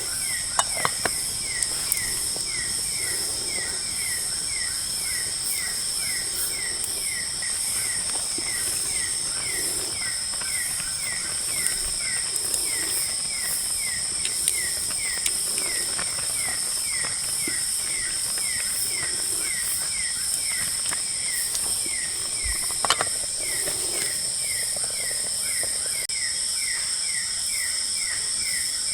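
Night forest ambience: a steady, high drone of insects, with a short falling chirp repeating about once a second throughout, and a few faint clicks.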